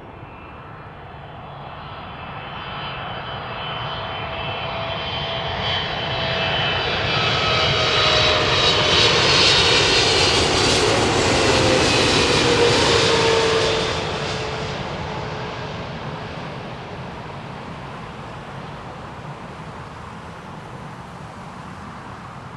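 Boeing 777-300ER landing and passing close by, its GE90 turbofans swelling to a loud peak in the middle with whining tones that fall in pitch as it goes past. The sound drops off suddenly about fourteen seconds in, then fades slowly.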